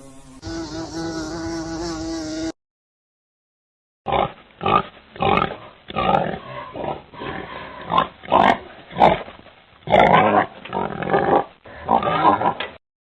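A steady buzzing tone for about two and a half seconds, then after a short silence an animal making a run of short, rough calls, one or two a second.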